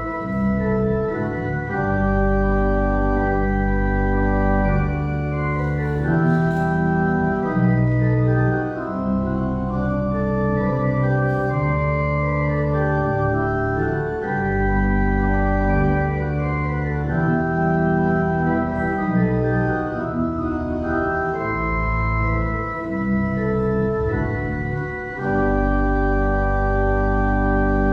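Church organ playing a slow prelude of held chords over a deep bass, the chords changing every second or two.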